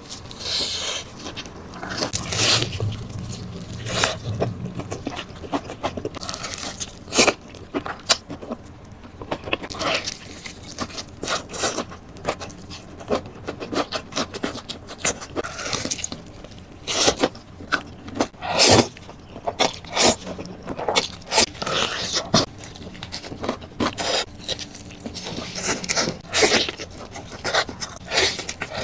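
Close-miked mukbang eating sounds: wet, smacking chewing of noodles and tender meat, made up of many irregular sharp clicks and short smacks.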